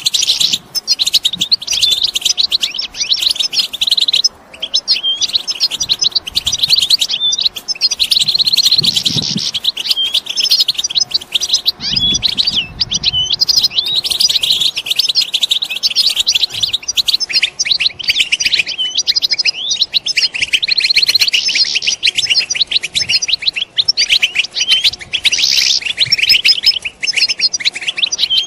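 A flock of European goldfinches twittering and calling together, a dense, continuous chatter of rapid high chirps and trills. These are the goldfinch's contact calls.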